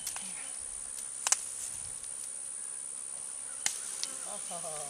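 Honeybee swarm buzzing steadily, with a sharp double snap about a second in and two more snaps near the end.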